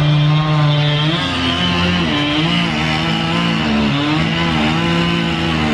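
Chainsaw running loudly during tree felling, its engine note dipping and recovering several times as it bites into the wood.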